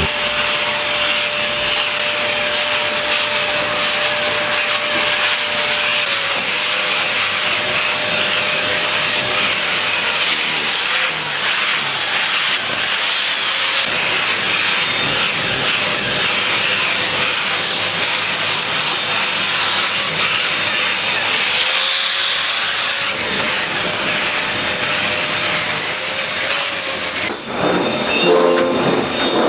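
Vacuum cleaner running steadily, a loud even whoosh with a faint motor whine, that switches off near the end.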